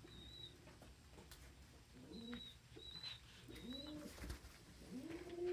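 Domestic pigeons cooing: a few low, arched coos from about two seconds in, the loudest near the end. Short, thin, high peeps repeat throughout from young pigeons (squeakers).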